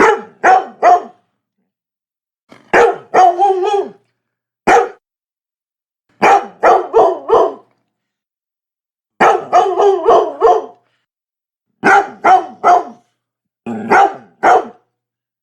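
Labrador barking in short volleys of two to four barks, with gaps of silence of a second or two between volleys.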